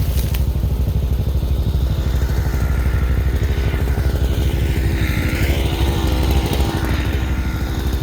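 Tractor engine running steadily at low speed, with a deep, even pulse and a slight rise about four to six seconds in.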